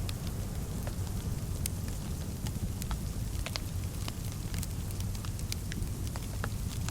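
Wood fire burning in a fireplace: irregular small crackles and pops, several a second, over a steady low rumble of flame.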